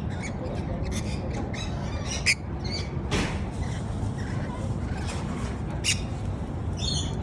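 Parrots squawking in short, scattered calls, with sharp loud calls about two seconds in and again near six seconds, over a steady low rumble.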